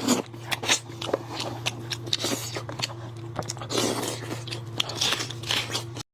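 A person biting and chewing goat head meat close to the microphone, with crunches and many short clicks, over a steady low hum.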